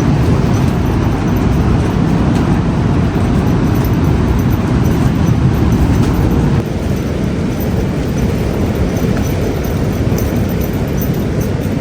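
Strong gale-force wind buffeting the microphone in a loud, steady low rumble, easing a little just past halfway.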